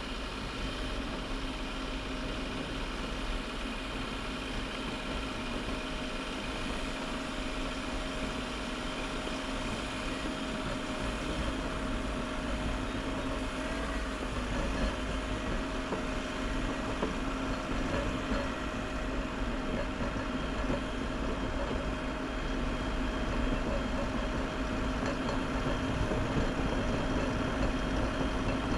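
Bobcat E50 compact excavator's diesel engine running steadily, slowly getting louder through the stretch.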